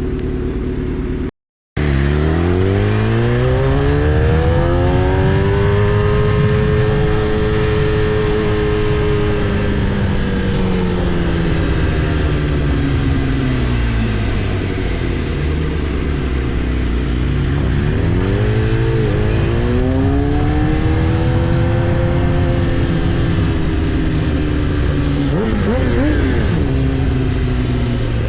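Kawasaki ZX-10R's inline-four engine heard from on board while riding, its pitch climbing and falling in long sweeps as the bike speeds up and slows down, with a quick rev blip near the end. The sound drops out for a moment about a second and a half in.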